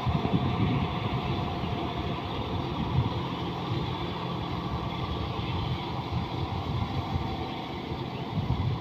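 Diesel engine of a John Deere 5210 4x4 tractor running steadily with a low rumble.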